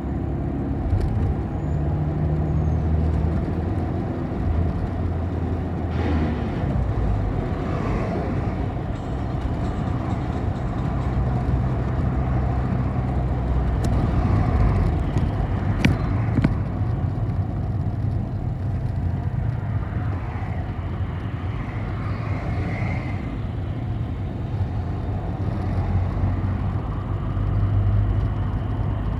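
City bus engine running with continuous road noise, heard from inside the bus as it drives. The low engine note shifts in pitch with a few brief clicks, the sharpest about halfway through.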